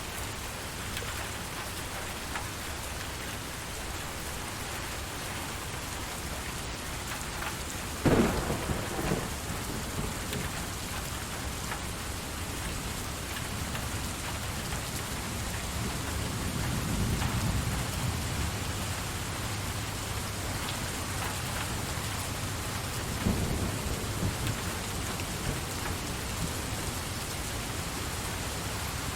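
Steady heavy rain with thunder: a sharp close clap about eight seconds in, a low rolling rumble a little past the middle, and another crack near the end.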